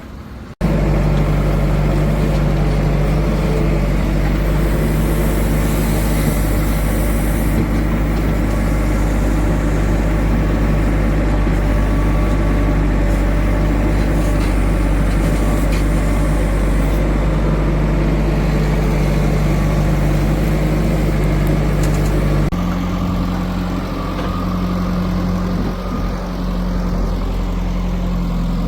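Heavy diesel engine running steadily with a deep drone. It cuts in suddenly at the start, and its pitch shifts abruptly about three quarters of the way through.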